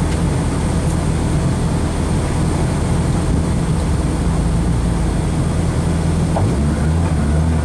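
Rally car engine idling, heard from inside the cabin; about six and a half seconds in the engine note steps up.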